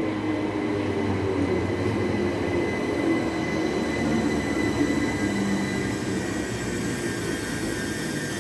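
Electric passenger train running through the station: a steady low rumble with several thin, steady high-pitched tones from its electrical equipment and a faint wheel squeal.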